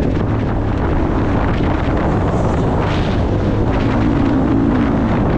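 Motocross bike engine running hard on the track, its revs rising and falling, with wind noise on the microphone.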